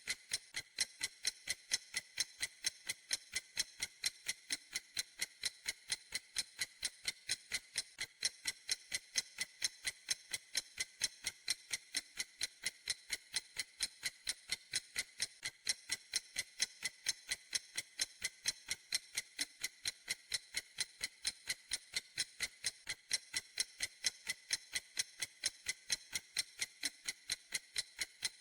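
A clock ticking steadily and evenly, about four crisp ticks a second.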